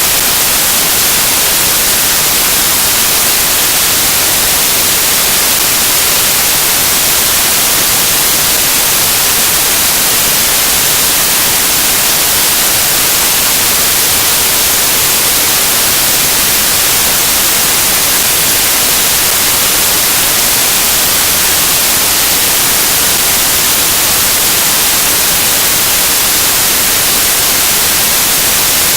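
Loud, steady static hiss like white noise, strongest in the high range, with no change in level.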